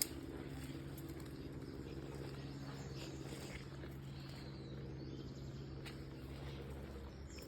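Faint, steady low engine drone with outdoor ambience and a few light ticks.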